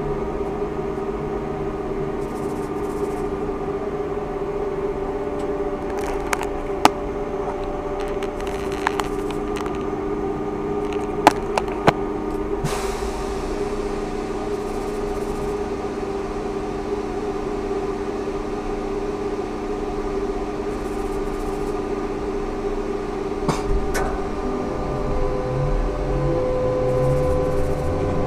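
Ikarus 280T GVM trolleybus electrical equipment giving a steady hum of several held tones, with a few sharp clicks. A low rumble comes up near the end.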